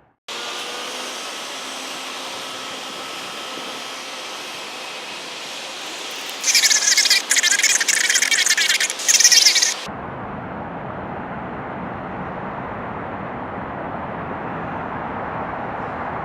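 Steady distant jet engine noise from a Boeing 737-700 on its takeoff roll, a hiss with a faint steady whine. Loud high-pitched chirping comes in about six seconds in and lasts about three seconds. Near ten seconds the sound changes abruptly to a fuller, lower steady rush.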